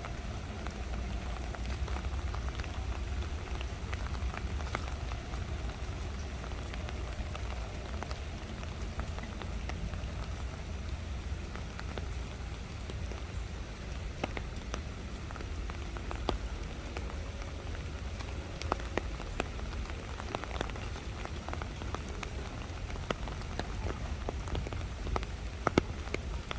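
Steady rain, with many separate drops ticking sharply over a continuous patter and a low rumble underneath.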